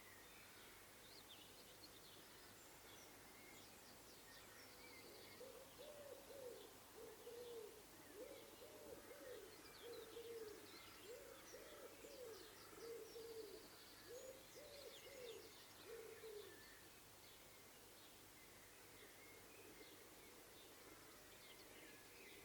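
Faint outdoor birdsong: a pigeon cooing in a run of low, repeated notes in short phrases, from about five seconds in until past the middle, over scattered faint high chirps of small birds.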